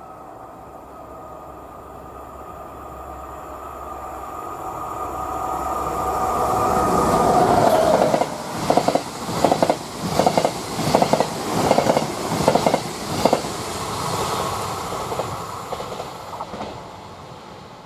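Train passing at speed: a rising whine as it approaches that drops in pitch as it goes by, then the wheels clatter over rail joints at about two beats a second as the cars pass, fading away near the end.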